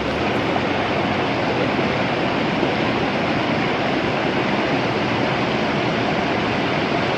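Rushing river water pouring through rock channels and cascades, a steady unbroken rush.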